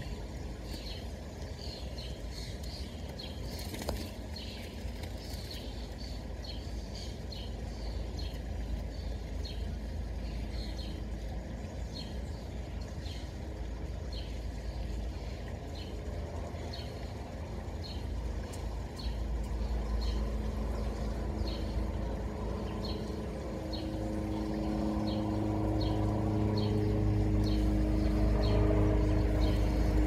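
A small bird chirping over and over, short high chirps about one to two a second. Under it a low engine rumble with a hum grows louder in the last third.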